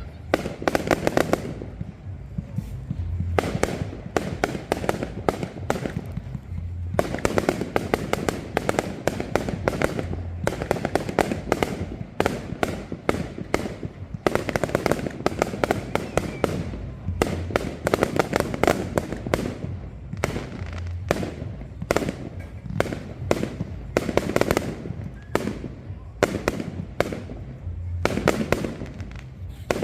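Fireworks going off: a dense, rapid run of sharp cracks and bangs with crackling.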